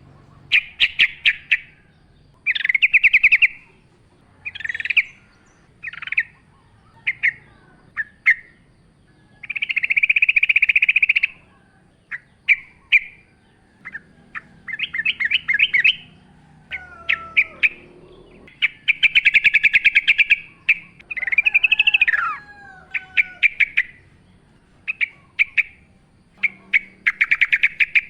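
Yellow-vented bulbul (trucukan) calling in the wild: repeated short bursts of rapid, bubbling chatter with brief pauses between them. A few thin gliding whistles, lower in pitch, come in around the middle.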